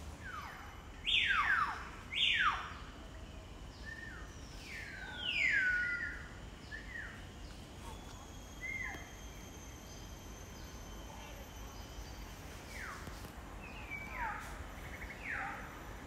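Birds calling: a series of whistled notes, each sweeping down from high to lower pitch. The two loudest come about one and two seconds in, and further falling notes follow now and then.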